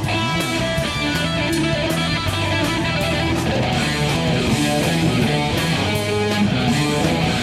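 Rock music: an electric ukulele run through compressor, octave and pitch-shift effects plays a guitar-like riff over a steady beat with hi-hat ticks about twice a second.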